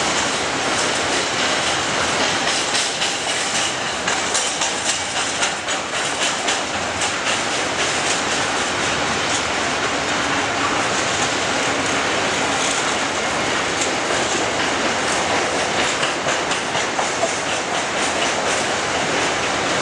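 Container wagons of an intermodal freight train rolling past, their wheels clacking steadily over rail joints and pointwork.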